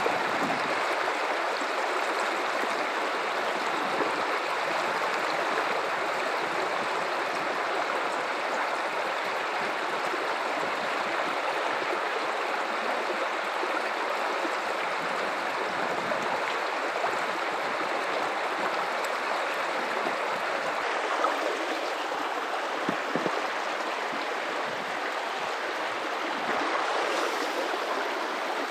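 Guadalupe River water running steadily over rocks, an even rushing with a little gurgling.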